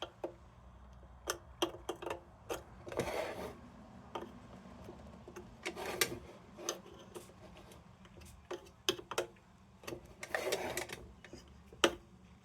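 Irregular light clicks and taps of a metal lantern's parts being handled and worked on, with a couple of brief rubbing noises about three seconds in and near the end.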